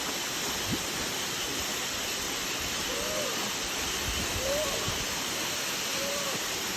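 Waterfall: a steady, even rush of falling water, with three faint short rising-and-falling calls over it.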